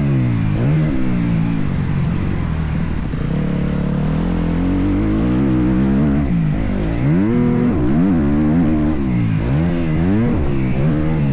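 Motocross bike engine revving as the throttle opens and closes, its pitch climbing and dropping over and over, holding steadier for a few seconds in the middle.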